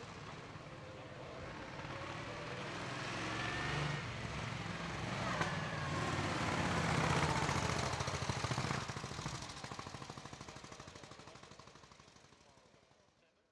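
Vintage racing car's engine running hard on a hillclimb, growing louder to a peak about seven seconds in, then fading away.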